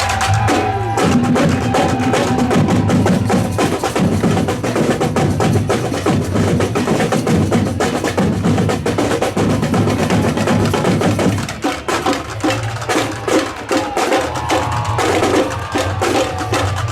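Batucada drum corps playing a dense, fast samba rhythm: deep bass drums under snares and sharp, clacking high percussion. The deep drums drop out briefly about twelve seconds in, then come back in.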